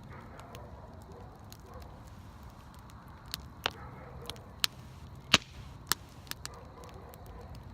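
Wood fire crackling, with a run of sharp pops and snaps in the middle, the loudest a little past halfway.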